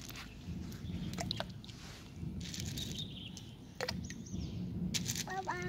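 Outdoor ambience: small birds chirping over a steady low rumble, with a few short sharp clicks.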